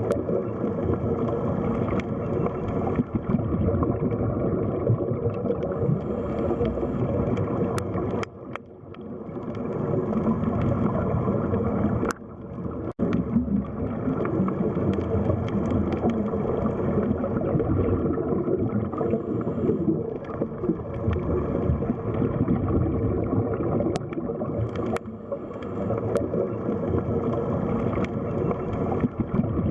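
Underwater sea ambience: a steady, muffled wash and gurgle of water, with a few faint clicks.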